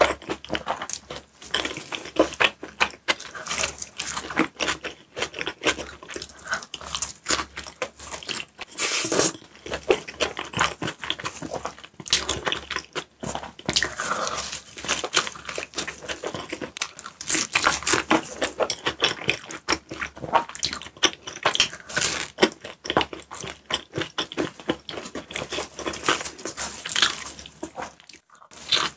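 Close-miked mouth sounds of a person biting and chewing bread and pizza: a dense, uneven run of small crackling clicks, with a few louder bites standing out.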